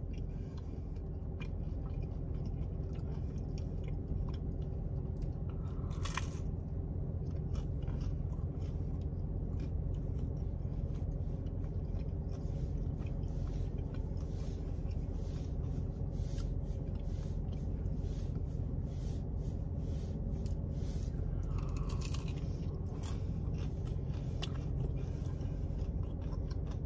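A person chewing thin, crispy St. Louis-style pizza with many small crunches throughout, over a steady low hum.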